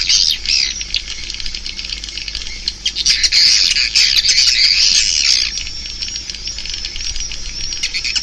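Edible-nest swiftlets twittering, a dense flock chatter of rapid overlapping high chirps, swelling louder and softer in waves.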